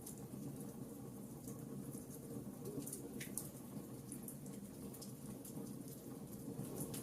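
Wood fire crackling in a fireplace: scattered small sharp pops over a steady low rumble of the flames, with one louder pop about three seconds in.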